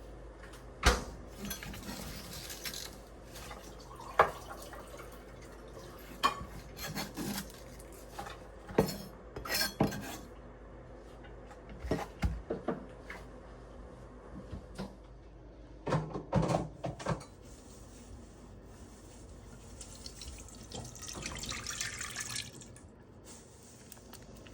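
Kitchen utensils and dishes clinking and knocking in irregular bursts, with water running briefly near the end.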